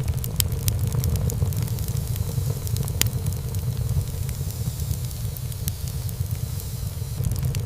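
Wood fire burning in a fireplace: a steady low rumble of flames with frequent small crackles and pops, one louder pop about three seconds in.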